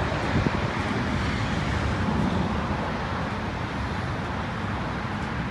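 Steady road noise of a car driving, an even rush with a low rumble.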